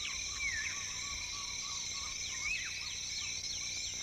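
Tropical rainforest ambience: a steady, many-layered insect chorus with high droning bands, one a fast trill, and birds calling over it in short whistled notes that swoop up and down.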